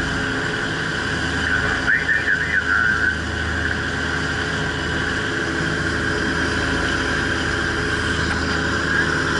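Fishing ferry boat's engine running steadily under way, with a brief warbling, high-pitched squeal about two seconds in.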